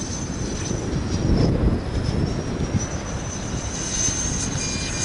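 Whine of a 105 mm electric ducted fan in an RC model jet flying overhead. Its pitch drops about one and a half seconds in as the throttle eases, then rises again. Gusty wind rumbles on the microphone underneath.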